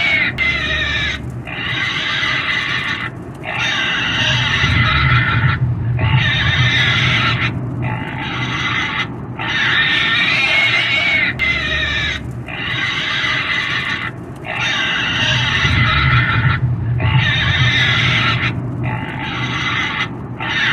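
A pig squealing and screaming over and over: high, wavering squeals about a second or two long, coming roughly every two seconds with short breaks between them.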